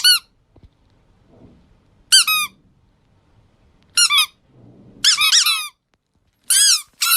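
A series of short, high-pitched squeaks, about six of them, one to two seconds apart, each with a quick bend in pitch; two come close together about five seconds in.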